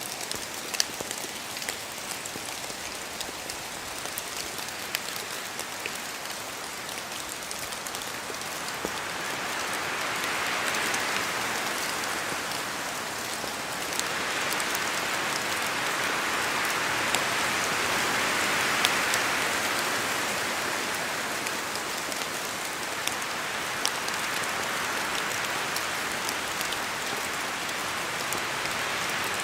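Steady rain in a forest, with scattered drops from the trees striking close by. Wind gusts through the trees swell the sound louder twice, about a third of the way in and again just past the middle.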